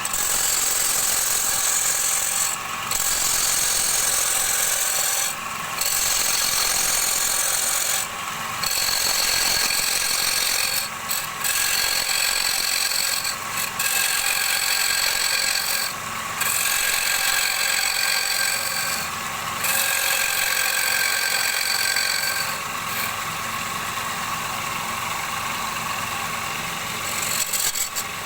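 Turning tool cutting a wooden bowl blank spinning on a lathe, a loud rasping hiss with whistling overtones. The cuts come as repeated passes of about two and a half seconds, with short breaks between them. In the last few seconds the cutting turns into a steadier, unbroken sound.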